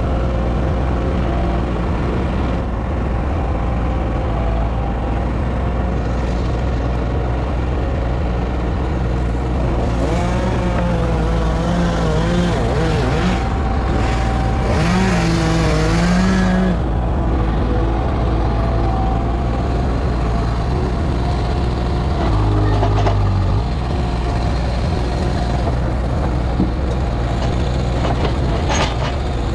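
A motor vehicle's engine running steadily, with a wavering tone that rises and falls between about ten and seventeen seconds in.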